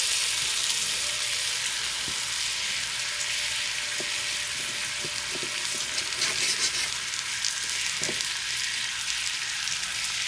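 Food sizzling steadily in a hot pan, with scattered crackles and a few light ticks.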